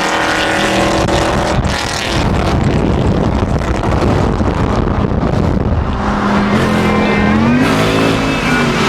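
Car engine running under way, with the revs rising about seven seconds in and then settling back.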